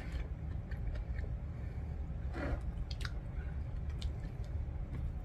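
Close-up chewing and wet mouth sounds of a person eating soft, gravy-soaked fries, with occasional short, light clicks.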